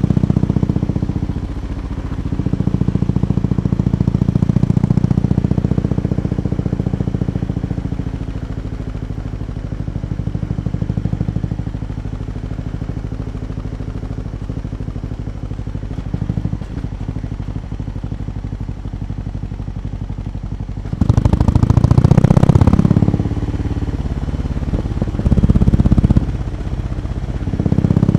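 BMW R18 B's 1802 cc two-cylinder boxer engine idling through its exhausts with a slow, loping note, blipped by the throttle: a strong rev about 21 seconds in, a shorter one around 25 seconds, and another rising near the end.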